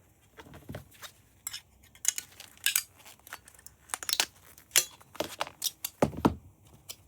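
Irregular clinks, knocks and clatters of small metal parts and hand tools being handled as an electronic device is taken apart.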